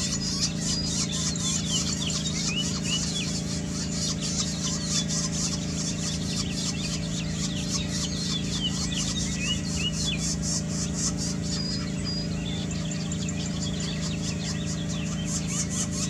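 Northern flicker nestlings begging at the nest hole while being fed: a fast, even chattering with short high chirps scattered through it, over a steady low hum.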